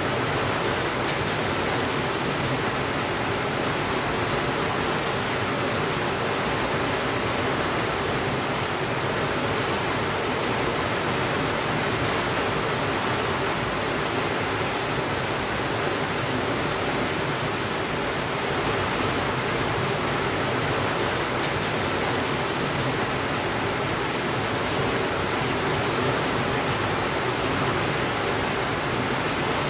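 Steady, even rain falling, with a few faint isolated clicks.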